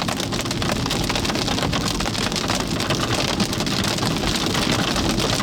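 Hail pelting the jeep: a dense, unbroken patter of hard little impacts, with the hailstones around marble to penny size and getting bigger.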